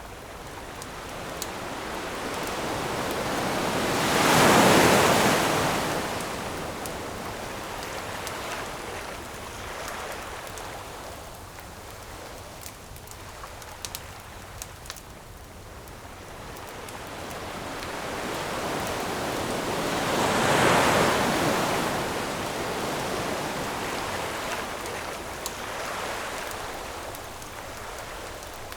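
Ocean waves washing onto a shore, two big waves swelling and falling away about sixteen seconds apart, over a steady wash of surf. Faint crackles of a wood campfire are scattered between them.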